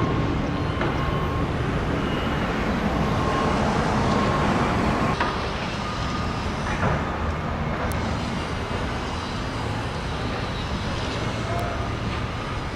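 Steady road traffic noise, vehicles passing continuously.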